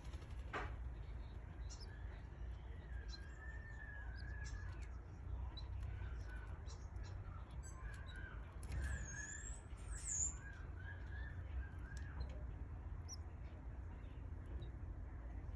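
Canaries chirping: a run of short wavering calls, with a couple of higher sliding notes about two-thirds of the way through, over a steady low hum.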